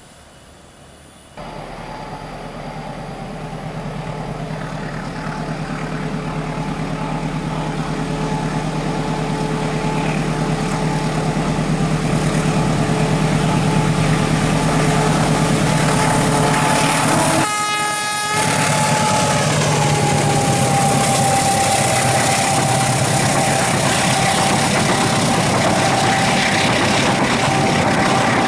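Passenger train running on the rails, with a steady humming tone under the running noise. It starts suddenly just over a second in and grows louder for about a dozen seconds, then stays loud and steady with a brief dip part-way through.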